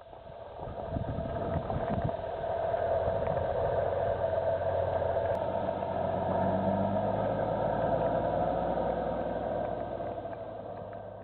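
A heavy vehicle's engine running steadily, growing louder over the first two seconds and fading away near the end.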